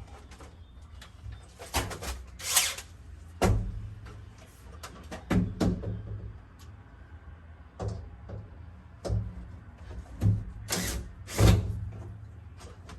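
Scattered clicks, knocks and dull thumps of plastic and metal being handled as a Panasonic NA-110NB washing machine's top cover is worked loose after its screws are taken out.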